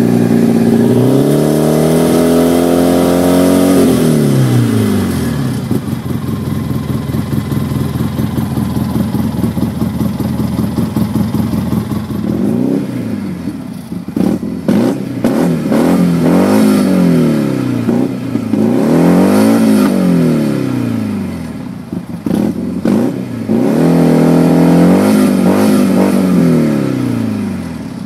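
2011 Polaris RZR S twin-cylinder engine through a Looney Tuned dual exhaust, revved and held high for a few seconds, dropping back to steady lower running, then blipped up and down about five times in a row.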